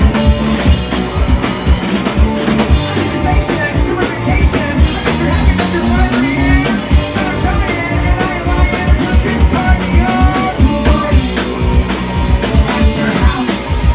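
Live rock band playing on a club stage: drum kit beating steadily under guitars, with singing.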